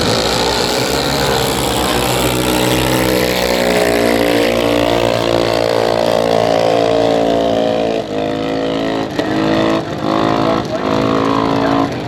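A drag-racing car's engine running hard at high revs on a pass down the strip. Over the last few seconds the sound breaks off briefly several times.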